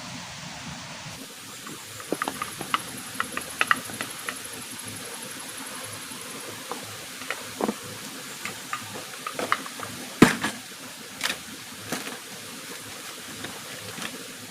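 Steady hiss of rain with irregular sharp clicks and knocks scattered through it, the loudest knock about ten seconds in.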